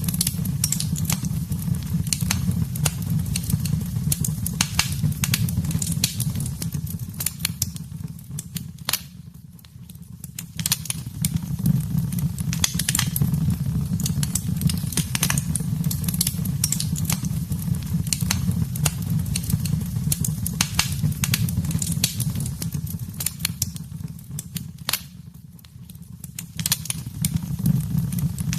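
Wood fire crackling and popping, with many sharp irregular snaps over a steady low rumble of the flames. It fades out briefly twice, about a third of the way in and near the end.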